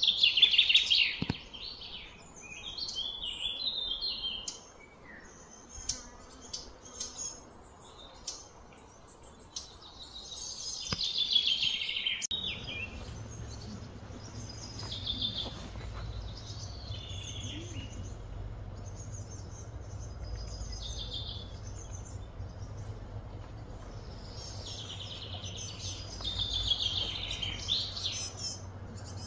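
Songbirds chirping and singing in short repeated bursts of quick, high notes. About twelve seconds in, a steady low hum starts underneath and carries on.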